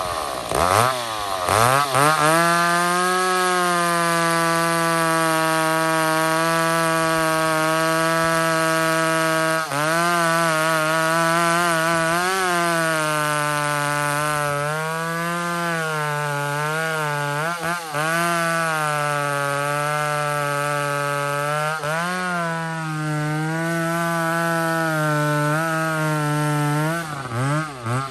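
Two-stroke chainsaw held at high revs while cutting wood, its pitch sagging and recovering several times as the chain loads up. It revs up in quick blips over the first two seconds and drops off near the end.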